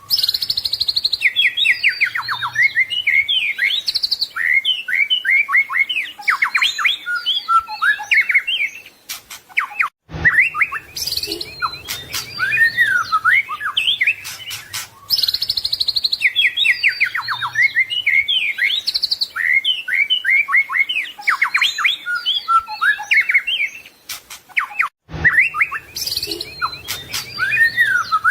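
White-rumped shama singing a long, rapid, varied song of whistled and chattering phrases with many mimicked notes. The song breaks briefly twice, about a third of the way in and near the end.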